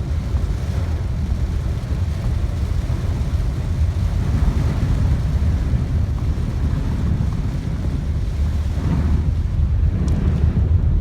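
Heavy downpour, a steady rush of rain and running water, with wind buffeting the microphone as a constant low rumble.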